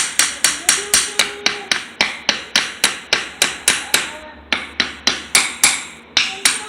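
Back end of a screwdriver tapping rapidly on the Yamaha XS1100's carburettor float bowls, about four sharp knocks a second with a short pause about four seconds in: striking the bowls to break them loose from the carb bodies.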